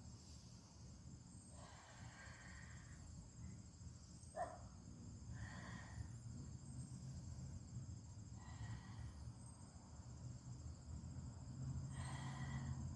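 Faint, steady high-pitched chorus of insects with a regular pulsing, over a low outdoor rumble. A few brief soft noises come and go.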